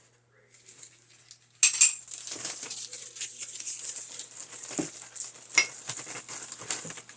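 Rough rocks being handled in their paper wrapping: a sudden rustle about a second and a half in, then continuous paper rustling with stones clicking and clinking against each other.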